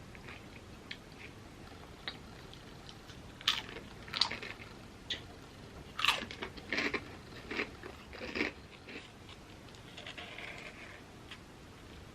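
Crisp chips being bitten and chewed: scattered faint chewing clicks, then a run of loud, sharp crunches through the middle, settling back to softer chewing near the end.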